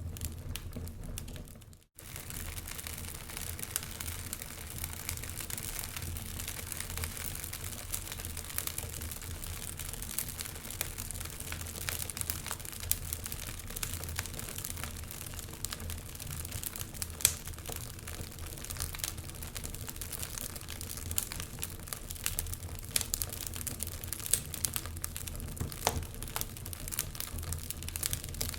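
Wood fire crackling in a fireplace, with frequent small pops and snaps over a steady low rumble. The sound cuts out for a moment about two seconds in, then carries on.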